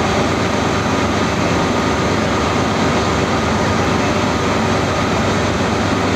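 Train running, a steady, loud, even noise with a constant hum and no changes.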